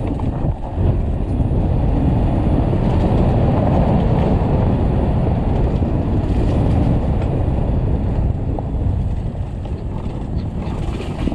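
Loud, steady wind rumble on the microphone mixed with tyre and trail noise as an electric dirt bike is ridden along a dirt trail. No engine note, easing slightly near the end.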